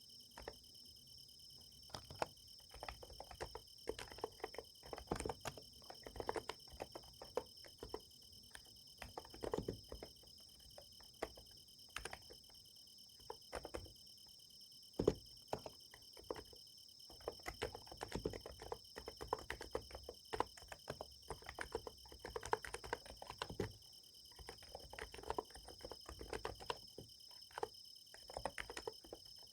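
Typing on a Niz Plum x108 electro-capacitive keyboard, keystrokes coming in irregular runs with short pauses. Behind it, a steady high-pitched chorus of summer night insects.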